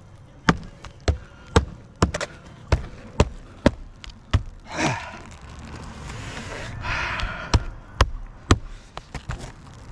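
A hammer driving roofing nails into asphalt shingles, with sharp blows about two a second. The blows pause for a few seconds of scraping and rustling midway, then resume with three more strikes near the end.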